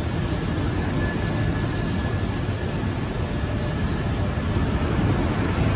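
SNCB/NMBS double-deck passenger train rolling past along the platform: a steady rumble of wheels on rail with a faint, steady high whine.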